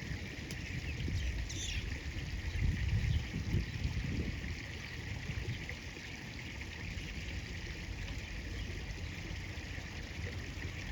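Steady rushing of flowing river water, with a deeper rumble that swells for a few seconds near the start.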